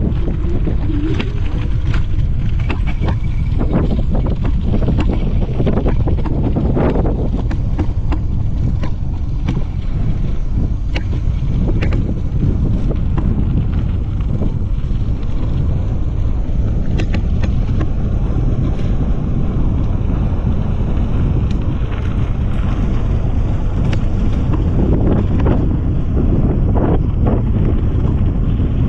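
Wind buffeting the microphone while riding an e-bike, a loud steady low rumble, with scattered clicks and knocks throughout.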